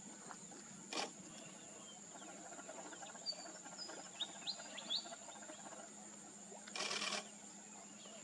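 A few short, high bird chirps and quick whistled sweeps about three to five seconds in, over a steady high-pitched insect drone. Two brief bursts of noise cut across it, one about a second in and a longer one near the end.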